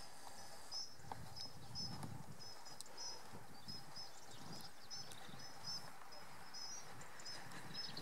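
A small songbird chirping over and over, short high double notes repeated every half second or so, over a faint low background rumble.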